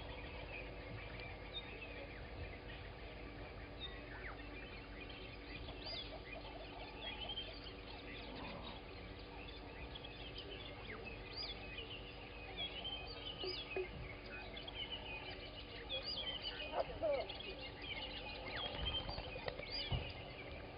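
Morning chorus of many birds chirping and whistling at once, busier in the second half, with some lower calls near the end. A steady low hum lies underneath.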